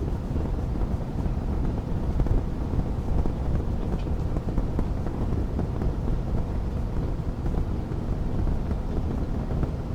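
Wood fire burning in a fireplace: a steady low rumble with a few faint crackles.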